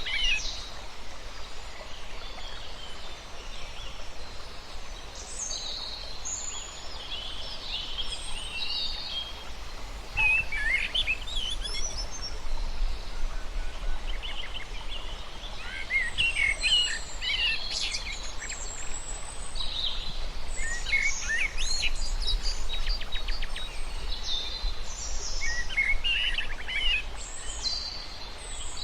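Several birds chirping and calling on and off, short high calls overlapping, including a quick rattling run of notes about three quarters of the way through, over a steady low rumble.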